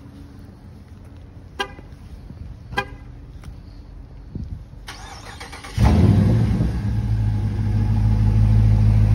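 Two short car horn chirps, about one and a half and three seconds in, then the Dodge Charger R/T's V8 cranks and starts about six seconds in and settles into a steady idle.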